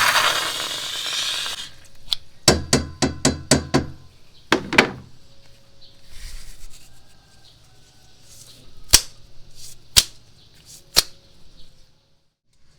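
Slime being pressed and played with: a squelchy hiss at first, then a quick run of about six sharp pops, two more a moment later, and three single pops about a second apart.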